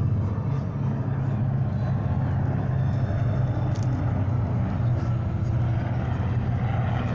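Steady low engine drone under a constant haze of background noise.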